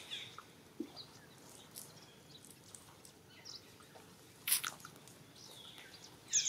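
Background ambience with a few brief, high bird chirps that sweep down in pitch, one cluster near the end. About four and a half seconds in there is a single sharp click, the loudest sound.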